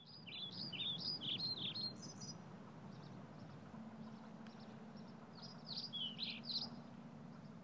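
Small birds chirping in quick flurries of up-and-down chirps, one in the first two seconds and another about five and a half seconds in, over a faint steady background haze.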